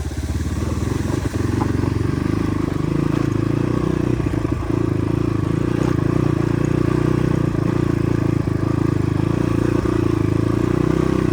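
Motorcycle engine running steadily at low speed, ridden slowly over a slippery track, with a few light clattering knocks from the bike.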